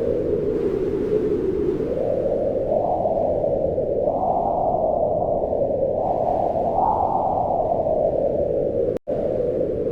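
Wind howling in a low rush that swells and rises in pitch a few times, then falls back. Just after nine seconds in, the sound cuts out for a split second.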